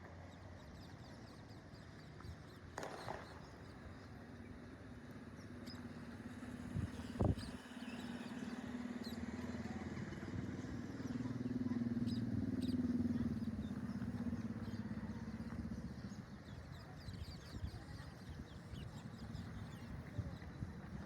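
A motor vehicle going by: a low engine hum swells to a peak about halfway through, then fades. A sharp knock comes about seven seconds in.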